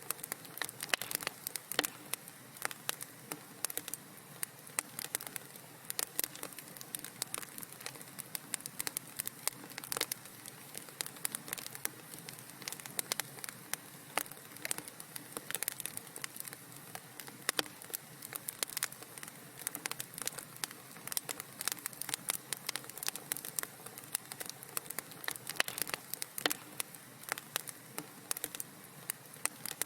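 Wood fire crackling steadily in a fireplace: a constant quiet hiss with many small irregular snaps and pops.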